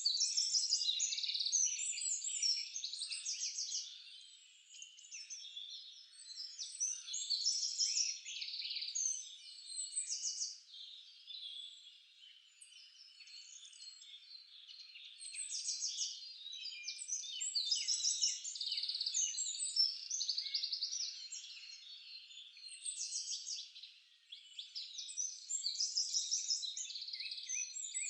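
Several songbirds singing over one another: a dense chorus of high chirps and fast trills. It swells into louder phrases every several seconds, with brief quieter lulls between.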